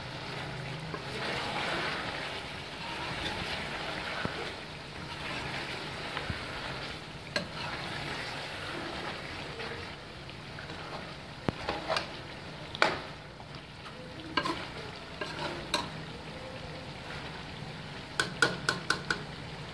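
Chicken and potatoes sizzling as they fry in a metal pot, stirred with a metal ladle that scrapes and knocks against the pot now and then. Near the end comes a quick run of about six light taps of the ladle on the pot.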